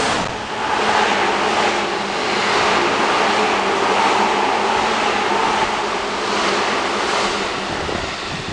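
Seibu Railway 2000 series electric train running past a platform at close range: a loud, steady rumble of wheels on rails and car bodies rushing by, easing off slightly near the end.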